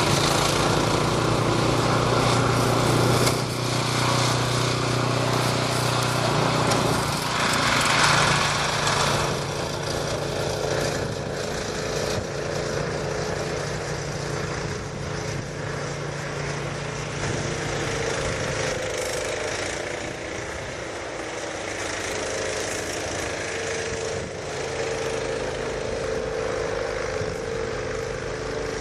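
Snowblower engine running steadily while clearing snow, its sound changing about seven seconds in and again about two-thirds of the way through.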